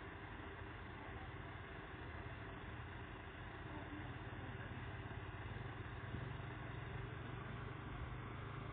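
A vehicle engine running steadily, its low hum growing stronger about halfway through.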